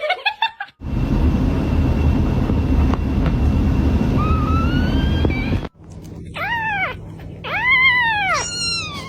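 A loud low rumbling noise lasts several seconds, then a cat meows three times near the end, each meow rising and falling in pitch.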